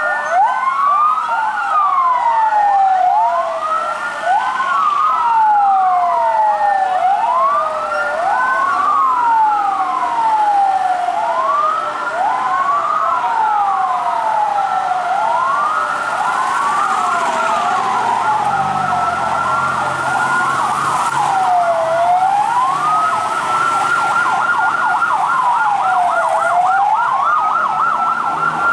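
Several fire truck sirens wailing together out of step, each sweeping up and down in pitch so that the wails overlap. Near the end the wails hold their high note longer before falling.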